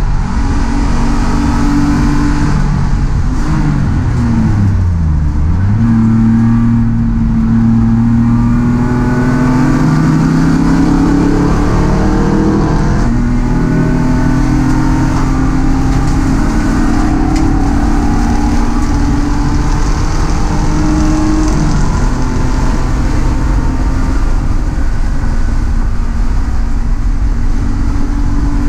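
Race car engine heard from inside the stripped, roll-caged cabin, running hard under load. Its pitch falls steeply a few seconds in, then climbs steadily through the revs. It drops sharply at an upshift about halfway through, climbs again, drops at a second shift about three-quarters through, then holds steady.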